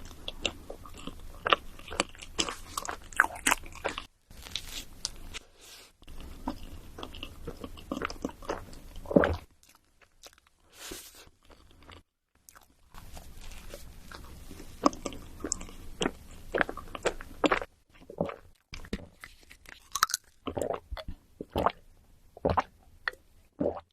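Close-miked eating: crunchy food being bitten and chewed in runs of sharp crackles, with a few brief breaks where the sound drops out.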